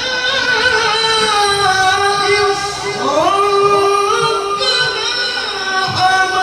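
A qari's voice holds a long, high note in melodic Quran recitation (tilawah), with ornamental wavers and a quick upward glide about three seconds in.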